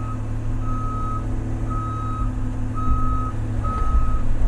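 Large excavator's travel alarm beeping steadily, about one beep a second, over the engine's steady drone as the machine tracks; the low rumble grows louder near the end and a sharp knock sounds right at the end.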